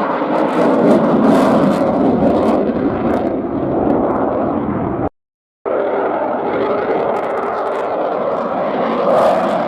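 Aircraft engine noise from an aircraft flying its display, loud and steady, broken by a half-second cut to silence about five seconds in.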